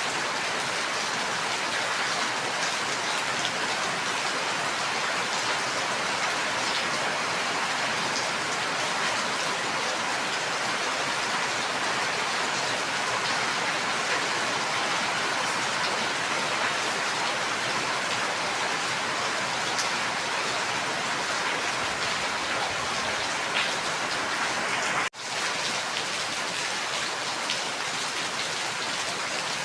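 Rain falling steadily, an even hiss with scattered sharper drop ticks. Near the end it cuts out for a split second and comes straight back.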